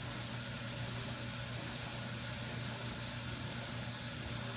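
Kitchen tap running steadily into the sink, over a constant low hum.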